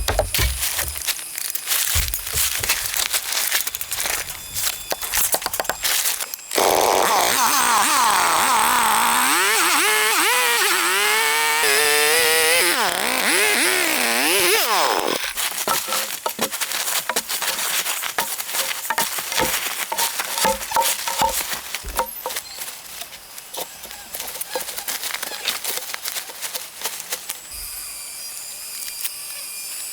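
A chainsaw runs for about eight seconds in the middle, its pitch rising and falling as it revs and bogs. Before and after it come stretches of rapid clicks and knocks.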